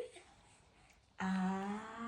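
A macaw making a long, drawn-out whining call that starts about a second in, holding one low pitch before it begins to slide upward.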